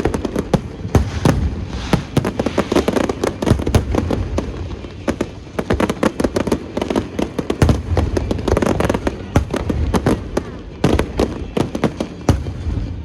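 Fireworks display going off in a dense barrage: rapid crackling and popping with deeper booms among them.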